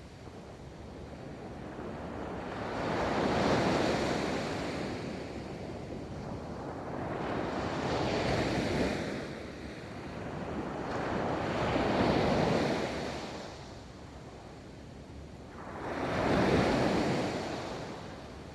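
Ocean waves breaking and washing up a beach, each surge of surf swelling and falling away about every four seconds, four times, with some wind on the microphone.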